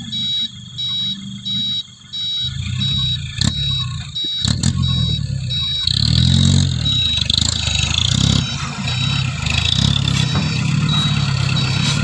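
Hino Dutro dump truck's diesel engine running, then revving up and holding high revs as the bed is raised to tip a load of soil. A rapid, high-pitched intermittent beeping sounds throughout, and a few sharp knocks come near the middle.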